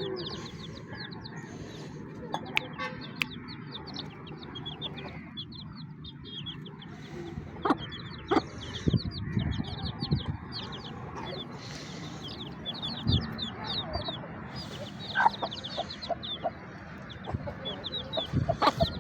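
Aseel chickens clucking, with clusters of quick, high chirping calls throughout and a few sharp knocks.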